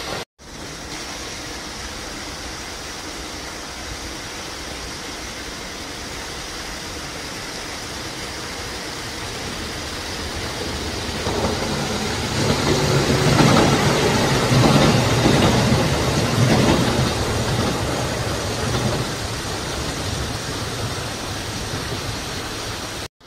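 A Kintetsu electric train passing, its running noise swelling to a peak about halfway through and then slowly fading away.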